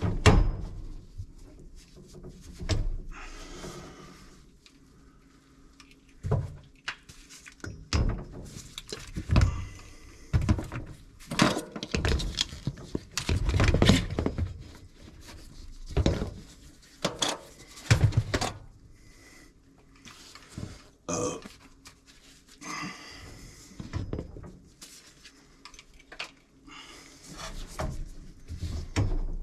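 Irregular knocks, clanks and scrapes of tools and metal parts being handled during plumbing work on a gas water heater installation.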